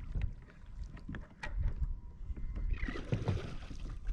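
Knocks, clicks and low thuds on a kayak as a freshly landed weakfish is handled aboard, with a brief splashy rush about three seconds in.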